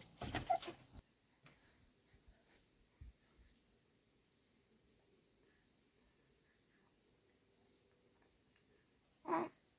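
Insects, crickets by their sound, shrilling in one steady, high, unbroken drone. Short voice sounds come in the first second, and a brief voiced call comes near the end.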